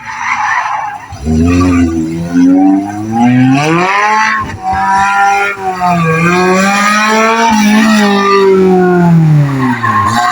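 Car engine revving hard through a slalom course, its pitch climbing and dropping back several times as the driver accelerates and lifts between cones, with tyres squealing.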